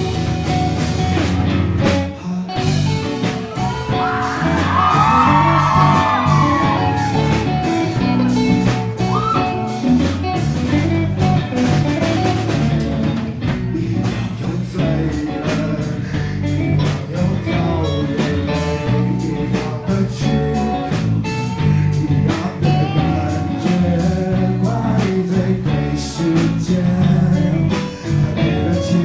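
Live band playing a pop-rock song: singing over guitar and a drum kit with a steady beat.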